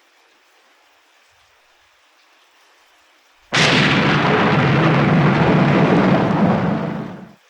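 A thunderclap breaks in suddenly about three and a half seconds in and rumbles loudly for about four seconds before cutting off abruptly, over faint steady rain.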